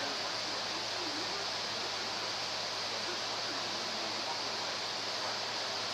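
Hurricane wind and rain: a steady, even rush.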